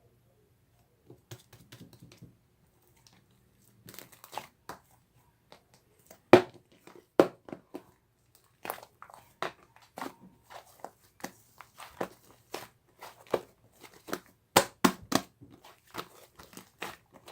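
White fluffy slime being squished and pressed, giving irregular crackling clicks and pops. They start sparse and come thicker and louder from about six seconds in.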